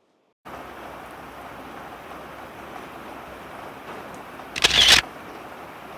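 Steady hiss of heavy rain, broken about two-thirds of the way in by a camera shutter firing a rapid burst for about half a second.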